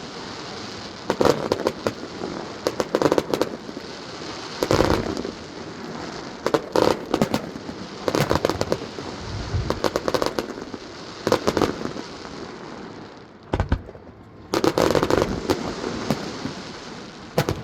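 Aerial fireworks display: shells bursting with repeated bangs and clusters of sharp crackles every second or two, including a couple of heavier low booms.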